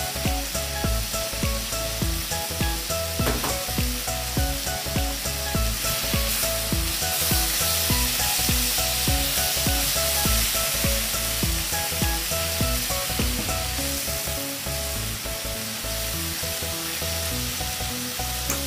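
Pork belly, kimchi and onions sizzling steadily as they fry in a stainless steel pan, stirred and turned with chopsticks. Light background music plays underneath.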